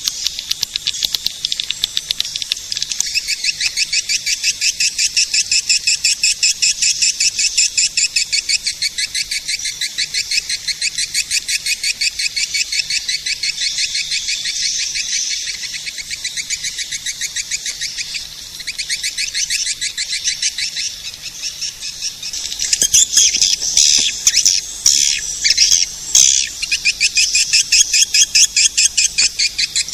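Swiftlet-caller lure sound: a dense, high-pitched twittering of swiftlets (walet), short chirps repeating many times a second without pause. The chirping grows louder and more irregular near the end.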